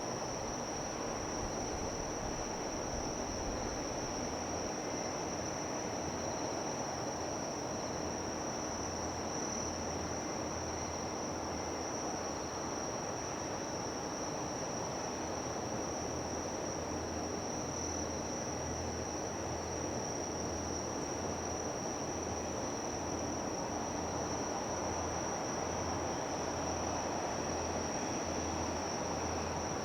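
Insects chirring in one steady high-pitched drone that never breaks, over a steady low rumble with a faint pulsing hum.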